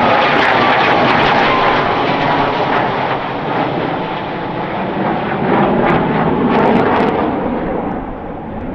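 Military aircraft passing overhead: a loud rush of engine noise with a whine that drops in pitch as it goes by, then slowly fading away.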